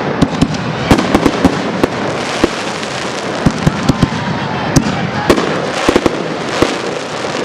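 Aerial fireworks display: sharp shell bursts and reports going off in quick, irregular succession over a continuous crackle. The crackle swells twice.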